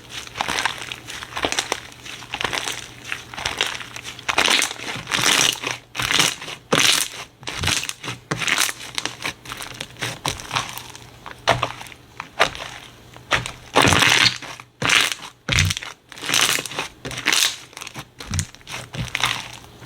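Slime being squeezed and worked by hand close to the microphone: a continuous run of short, irregular squishing and crackling sounds with brief gaps.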